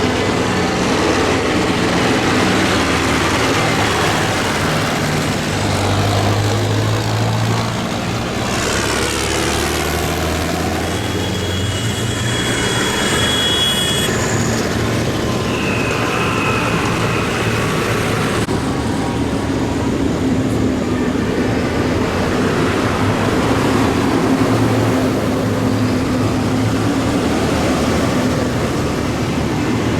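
Tractor engines running steadily as a convoy of tractors passes by, one passing close about eight seconds in. Two brief high-pitched tones sound near the middle.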